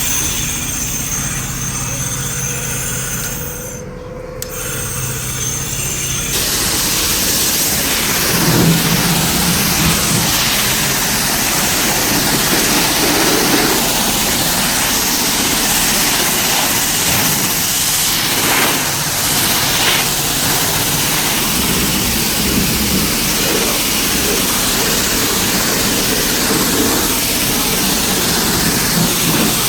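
High-pressure spray wand at a self-service car wash, with its pump running. The spray drops out briefly about four seconds in, then comes back about two seconds later as a steady, loud hiss of water.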